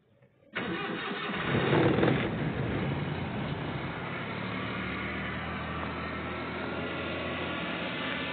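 Suzuki car engine starting on a cold morning: it catches about half a second in, revs up briefly, then settles into a steady idle.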